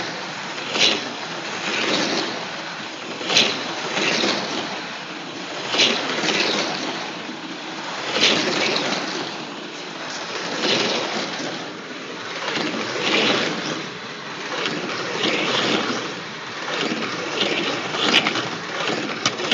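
Slot cars running laps on a track, with a loud whizz each time the cars pass close by, about every two and a half seconds, over a steady hum of the cars' motors.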